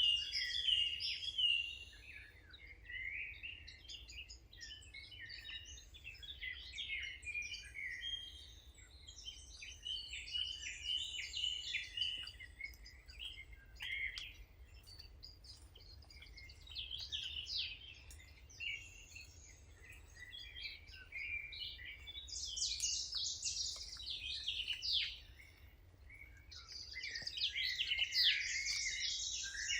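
Several wild songbirds chirping and singing at once, a dense chorus of quick overlapping calls that swells twice in the second half. A faint low rumble runs underneath.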